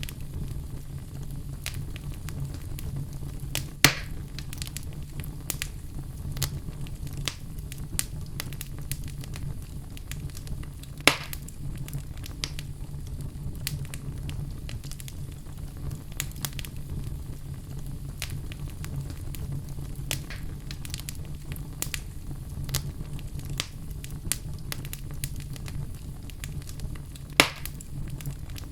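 Fire crackling over a low steady rumble, with a constant patter of small snaps and three sharper, louder pops.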